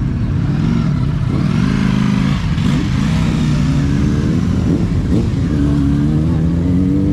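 Car engine revving, loud, its pitch rising and falling several times.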